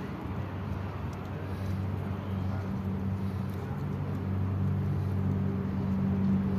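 A low, steady engine hum from a motor vehicle, growing gradually louder toward the end.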